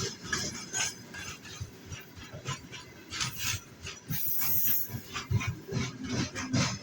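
Freight train wagons rolling past, with irregular clanking and knocking of wheels on the rails over a low rumble, and a brief hiss partway through.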